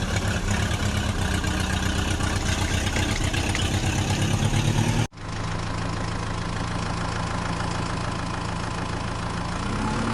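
Heavy diesel machine engine running with a fast throbbing beat. About halfway it cuts off abruptly and a second, steadier engine hum takes over, rising a little near the end.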